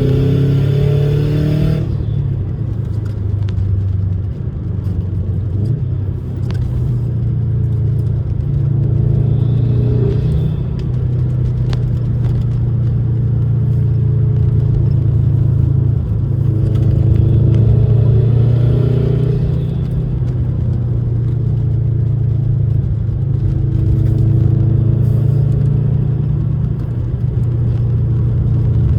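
Bugeye Subaru WRX's turbocharged flat-four engine running steadily under way, heard from inside the cabin. A loud hiss over it cuts off about two seconds in.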